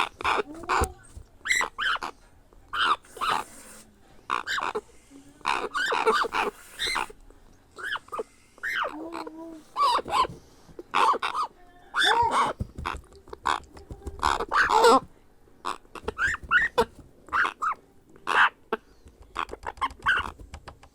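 Grey parrot chick making many short calls in quick succession, some bending up and down in pitch, typical of a hand-fed hatchling begging for food.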